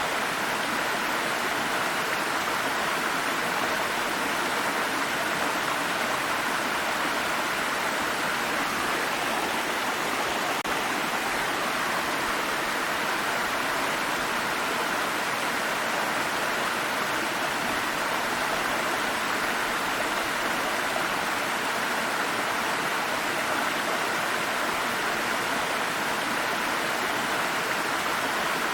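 A small stream of water running steadily over rocks, a constant rushing babble.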